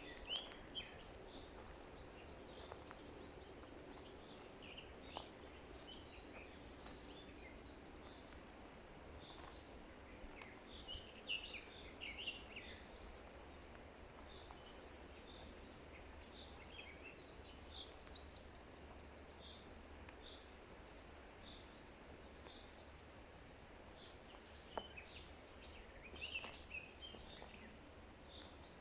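Forest songbirds chirping and singing faintly over a steady low background hiss, with livelier bursts of song near the start, about ten to twelve seconds in, and near the end.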